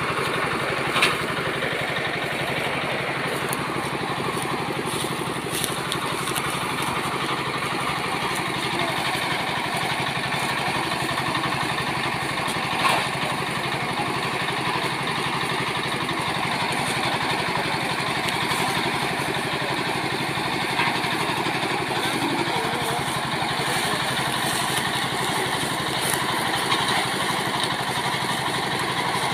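A farm machine's engine running steadily at an even speed, with a sharp knock about a second in and another near the middle.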